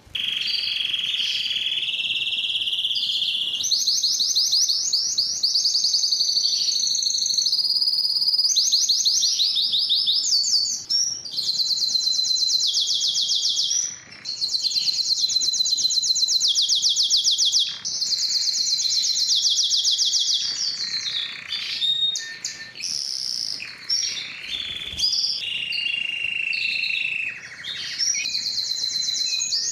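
Spanish timbrado canary singing a long, continuous song of fast trilled rolls, one phrase of rapidly repeated notes running into the next, with a few brief breaks.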